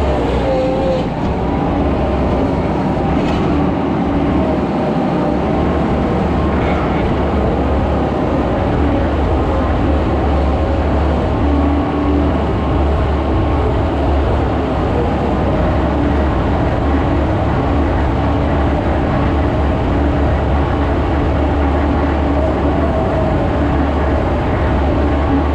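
Skid steer's diesel engine running steadily under load, with a low drone and a faint wavering whine above it as the machine pushes and spreads dirt.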